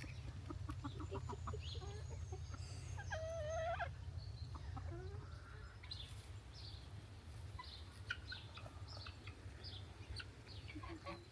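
Chickens clucking among scattered short bird calls, with one longer call about three seconds in, over a low steady rumble.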